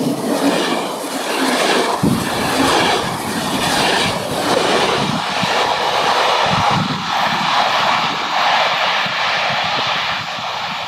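A passenger train passing close at speed and then drawing away, with its locomotive at the rear: loud running noise of wheels on rail, with sharp wheel knocks over the track about two seconds in and again a few seconds later. The noise eases as the train moves off near the end.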